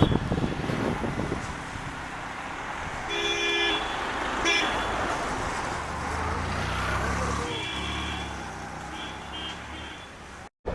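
Road noise from a ride on a moving motorbike, with vehicle horns honking in short blasts: one about three seconds in, a quick second toot a second later, and two more near the end, over a passing vehicle's engine drone.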